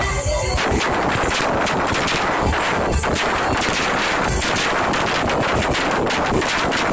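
Fireworks barrage: a dense, rapid string of bangs and crackles, many a second, without a let-up.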